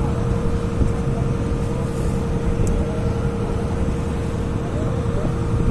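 A ferry's engine running with a steady low drone and a constant hum, no change in speed.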